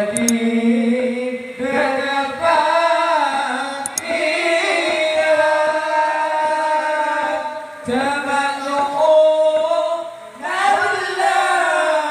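A singer performing Madurese sholawat unaccompanied, holding long ornamented notes in phrases separated by brief pauses.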